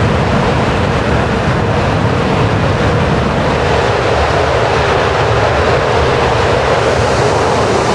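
Jet aircraft engines running on a carrier flight deck: a loud, steady roar with no breaks.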